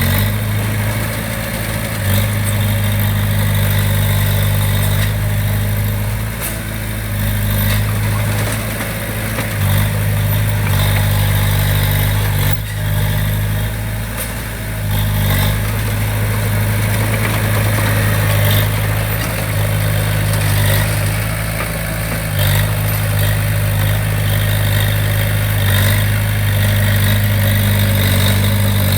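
Diesel engine of heavy construction machinery running at a steady pitch, with a few short knocks along the way.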